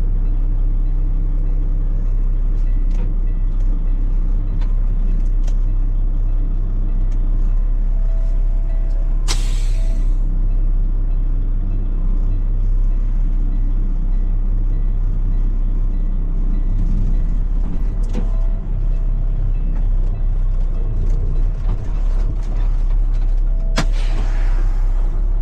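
Heavy truck's diesel engine idling steadily, with two short air-brake hisses: one about nine seconds in and one near the end.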